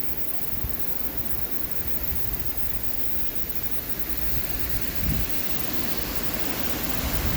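Strong wind blowing steadily, with low buffeting on the microphone; it swells briefly about five seconds in and builds again near the end.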